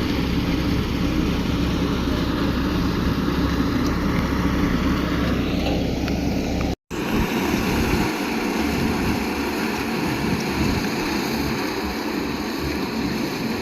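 Tractor engine running steadily with a low hum. About seven seconds in, the sound cuts out for a moment; afterwards a steady noise remains and the low engine hum comes and goes.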